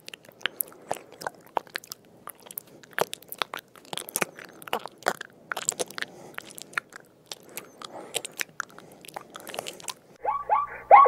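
A large land snail feeding on a wet grass blade: close, irregular crunching and clicking as it rasps through the leaf. Near the end a louder run of repeated falling tones starts.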